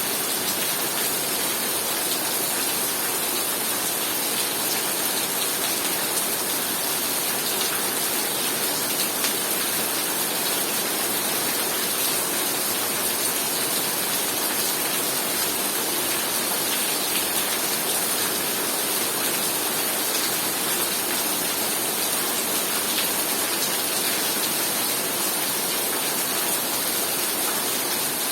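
Heavy rain falling steadily as a dense, even hiss of drops, with scattered fainter ticks of single drops.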